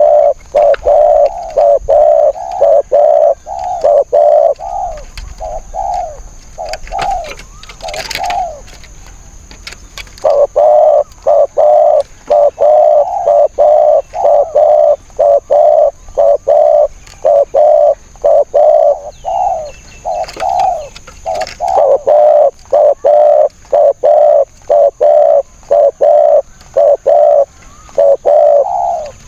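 Spotted doves cooing in fast repeated series of short low coos, with a break of about two seconds near the middle.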